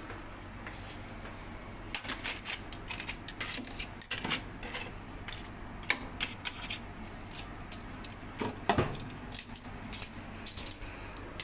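Irregular clinks and clatter of metal kitchenware, with the sharpest knocks about six and about eight and a half seconds in.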